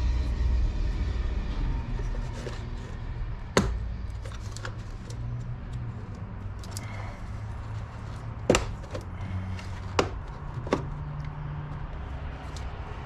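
A steady low rumble with four sharp knocks of hand tools against metal, the first about three and a half seconds in and three more close together near the end.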